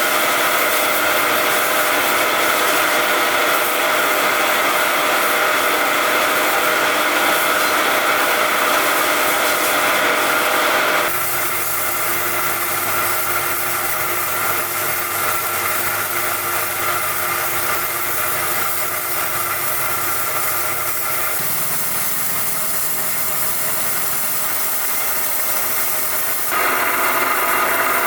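Steady machine noise with a fixed hum of several tones, like a motor or power tool running continuously. It changes character abruptly about a third of the way in, getting quieter and lower, then jumps back to the louder, brighter sound near the end.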